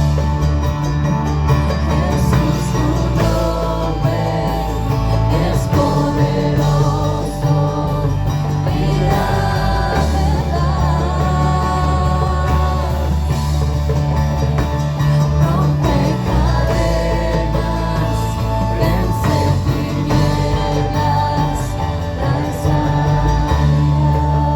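Christian worship music: a band with deep sustained bass notes and held chords, with singing over it.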